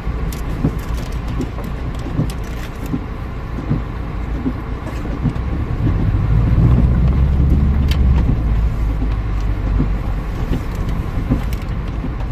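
Off-road vehicle driving over a rough dirt trail: steady low engine and road rumble with scattered knocks and rattles, growing louder for a couple of seconds around the middle.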